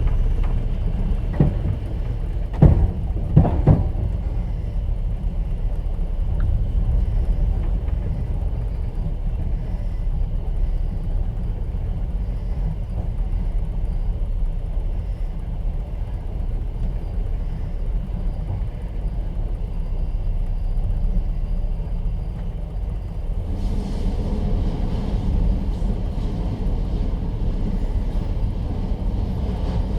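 Moving passenger train heard from inside an open-plan sleeper carriage: a steady low rumble of the running carriage. A few sharp wheel clacks over rail joints come in the first seconds. About two-thirds through, a louder hiss joins the rumble.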